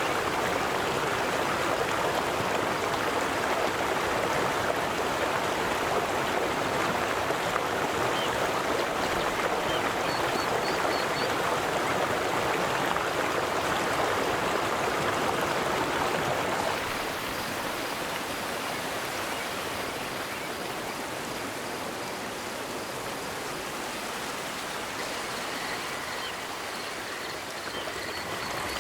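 River water rushing steadily over stones, a little quieter from about 17 seconds in, with faint high chirps in the background from about 10 seconds on.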